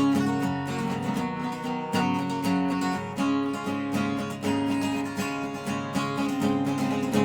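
Dobro resonator guitar being strummed and picked in a steady rhythm, with chords and notes ringing on.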